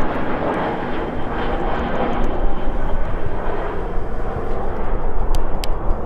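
Jet airliner flying by: a steady rush of engine noise that eases a little after the first second. Gusty wind buffets the microphone underneath.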